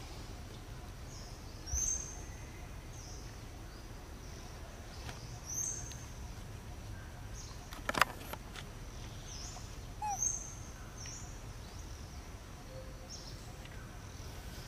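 A bird repeating a short, high call that sweeps upward, about every four seconds, over a steady low rumble. A single sharp click about eight seconds in is the loudest sound.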